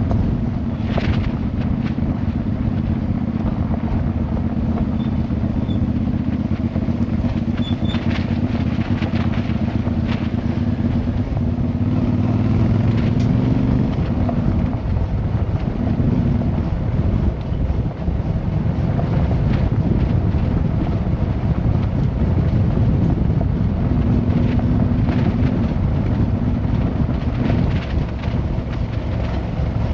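Motorcycle engine running while riding, with wind and road noise. The steady engine note fades into the noise about halfway through and comes back near the end.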